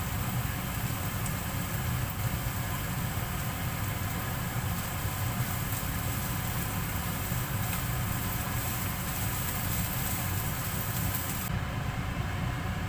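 Spice paste and diced carrot frying in oil in a wok while a silicone spatula stirs them, over a steady low rumble. A few faint scrapes of the spatula can be heard.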